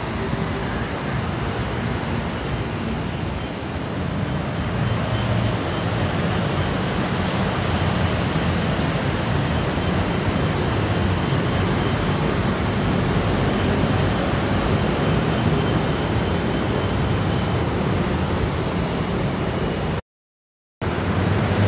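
Dense city traffic of many motorbikes and scooters running and streaming past together, a steady mass of small-engine drone and road noise that grows a little louder a few seconds in. It cuts out completely for under a second near the end.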